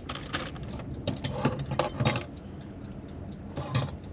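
Light clinks and knocks of small objects being handled and set down in a cramped space. Several come in the first two seconds and another short cluster near the end.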